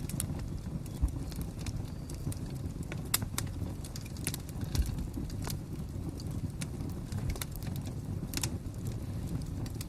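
Fire crackling: irregular sharp pops and snaps over a steady low rumble, with a few louder pops about 1, 3 and 5 seconds in.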